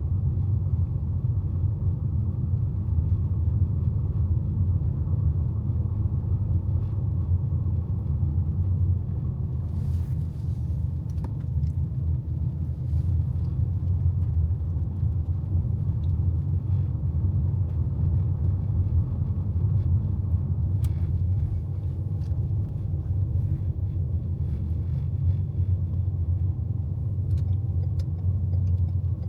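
Steady low rumble of a car driving, heard from inside the cabin as road and engine noise, with a few faint light clicks.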